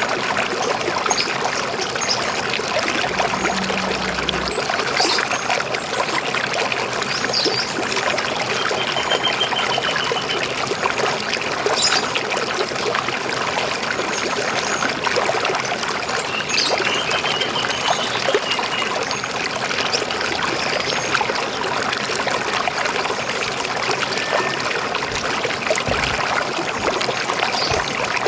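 River water flowing steadily with a trickling, gurgling rush. A couple of faint bird trills sound over it, about a third and two thirds of the way through.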